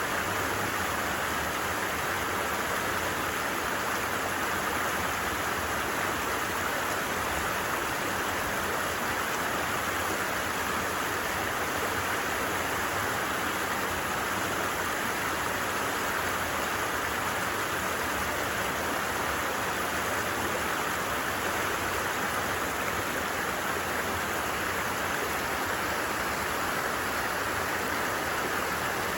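A stream running steadily, an even hiss of flowing water that stays the same throughout.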